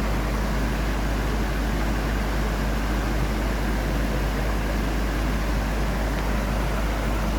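A waterfall's falling water making a steady, unbroken rush with a deep low rumble beneath it.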